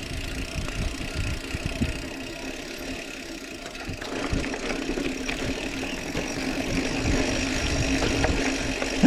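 Mountain bike rolling down a steep, rough trail: irregular knocks and rattles from the tyres and frame over uneven ground, with rumble on the action-camera microphone. A steadier hum joins about four seconds in.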